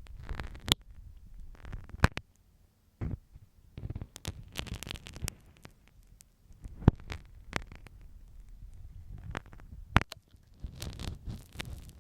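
Close-up ear-cleaning ASMR: a marking pin scraping and tapping on an ear microphone, irregular scratchy rustles broken by several sharp clicks. Near the end, a denser, continuous rustling scrape takes over as an ear pick is used.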